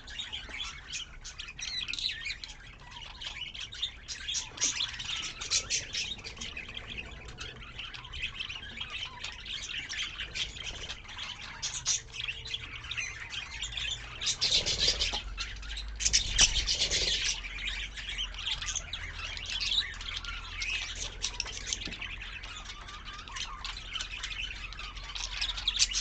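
Budgerigars chattering, with many overlapping chirps and warbles, and a louder flurry of calls a little past the middle.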